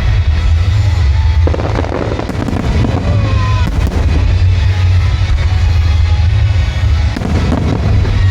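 Fireworks display set to music: music playing throughout, with firework shells bursting about a second and a half in, again a second later, and once more around seven seconds in.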